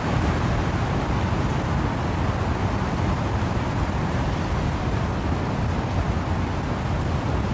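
Wind-driven rain in trees: a steady, even rushing noise, heaviest in a low rumble, with no single drops or gusts standing out.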